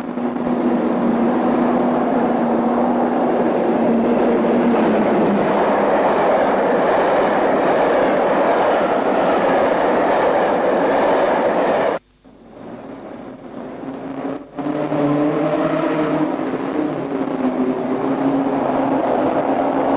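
British Rail diesel locomotive running past on the main line, engine note over the rumble and clatter of wheels on rail. About twelve seconds in the sound cuts out abruptly. A couple of seconds later another diesel engine note comes back in.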